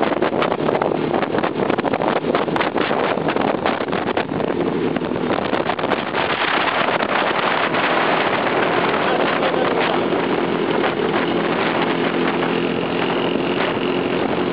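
Two-stroke Jawa/Yezdi motorcycle engines running at riding speed, with heavy wind buffeting on the microphone. A steady engine tone comes through more clearly in the last few seconds.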